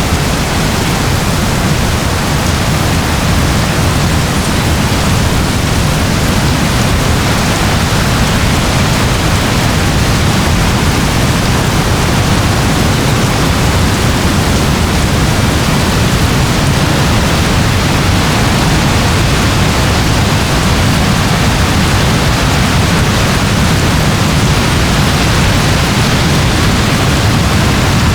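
Steady rain, a dense even hiss of falling water with a low rumble beneath it.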